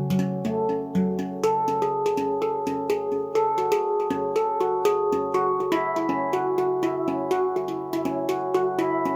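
Luna Eira, a tuned steel percussion instrument, being played by hand: a steady stream of struck notes, about four or five a second, each ringing on under the next.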